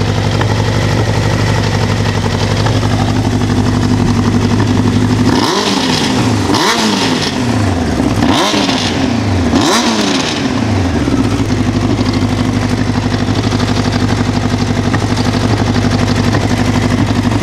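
Honda CBR1000F Hurricane's inline-four engine idling, blipped four times in quick succession in the middle and dropping back to idle. A cam chain rattle comes and goes at idle and is more pronounced after the throttle is released, a common Honda trait from the factory cam chain tensioner, which the seller calls a nuisance rather than a mechanical problem.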